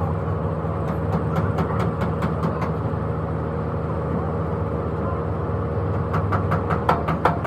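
An engine running steadily, with a string of short sharp metallic clicks and knocks that become busier near the end.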